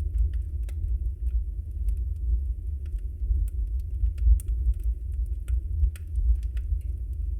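Wood fire of burning logs in a fireplace, a steady low rumble of flames with frequent, irregular crackles and small pops.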